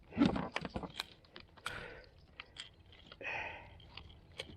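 Fishing tackle and line being handled and untangled in a kayak: a run of small, irregular clicks and knocks, with two short hissy rushes, one near the start and one a little past three seconds in.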